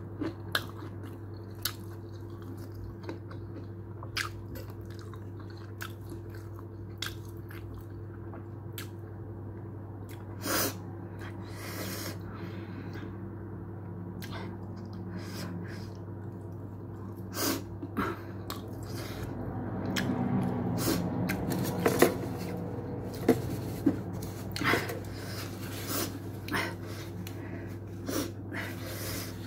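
A person chewing and biting into a shawarma wrap, with many short sharp mouth clicks and smacks scattered throughout and a louder, busier stretch of chewing about two-thirds of the way through. A steady low hum runs underneath.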